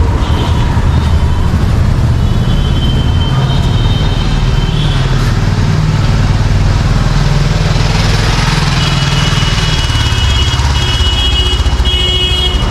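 Busy street traffic: a steady rumble of vehicle engines, with high-pitched horns honking about two seconds in and again in repeated short blasts near the end.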